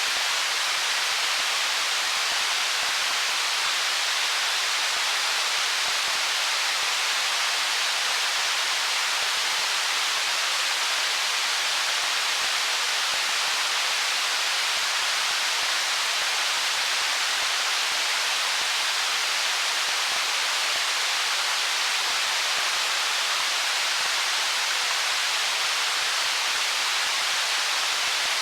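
Stream water rushing over stones, a steady, even hiss with little low rumble and no distinct splashes or gurgles.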